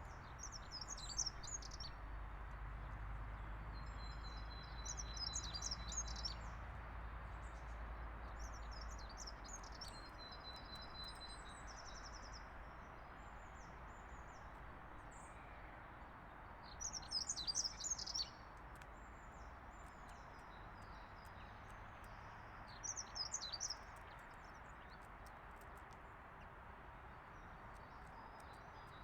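Small songbirds chirping in short, high phrases every few seconds, with the loudest bursts about two-thirds of the way through, over a steady background hiss and a low rumble that fades out in the first third.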